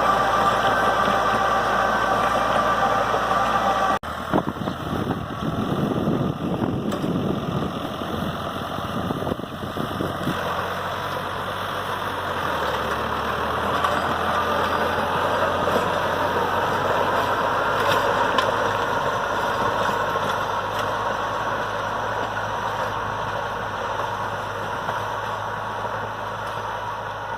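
New Holland tractor's diesel engine running steadily, with an abrupt change about four seconds in to a rougher, more rumbling sound that continues.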